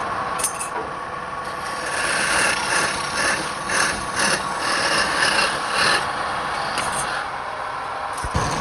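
Wood lathe running steadily, with a turning tool working the spinning wood in short, repeated rasping strokes between about two and six seconds in.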